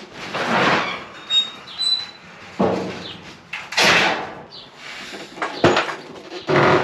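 A run of knocks, bumps and scrapes of things being handled, about half a dozen, with a brief high squeak early on.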